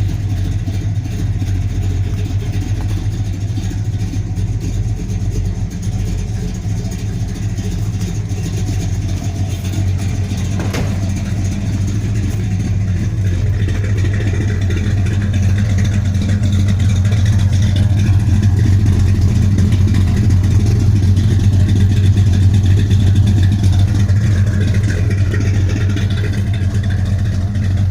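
1968 Plymouth Road Runner's 440 V8 (7.2 L) running steadily at a low idle-like speed, getting a little louder in the second half.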